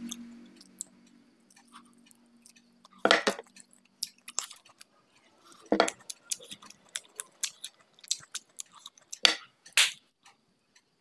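Close-miked wet chewing and mouth smacking of someone eating rice and mutton curry by hand, with scattered small clicks and a few louder sharp smacks. A low hum fades out over the first couple of seconds.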